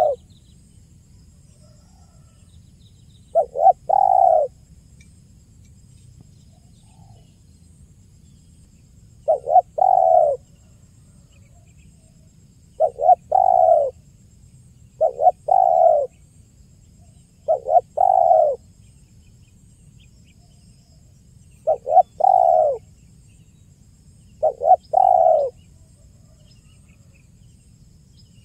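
Spotted dove (tekukur) cooing: seven phrases spaced a few seconds apart, each two quick notes followed by a longer one, with a faint low hum beneath.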